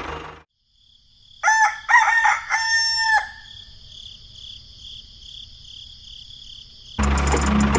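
Rooster crowing once, about a second and a half in: a few short notes and then a longer held note. A faint pulsing high-pitched buzz follows, and near the end a loud, dense noise cuts in.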